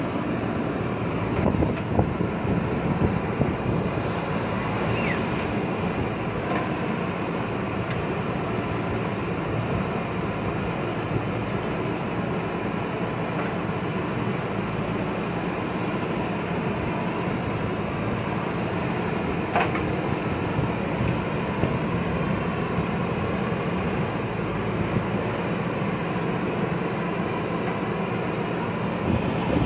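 JCB backhoe loader's diesel engine running steadily while working, with a few short knocks from the machine.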